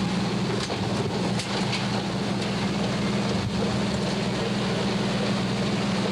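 Car engine and road noise heard from inside the cabin while driving: a steady drone with a constant low hum under it and a few faint ticks near the start.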